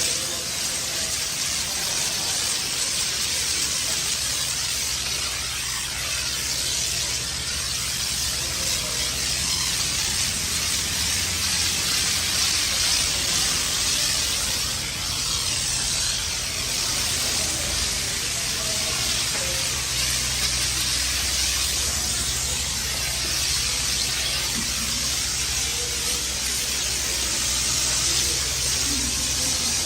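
Pressure washer spraying water onto a car: a steady hiss of spray over a steady low hum.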